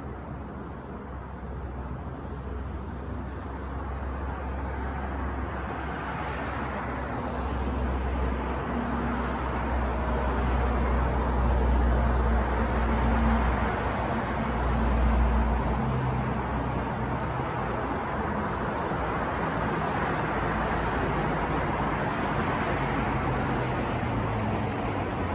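New York street traffic noise: a continuous wash of passing vehicles with a deep rumble and faint engine hum, growing louder toward the middle as traffic goes by, then settling to a steady level.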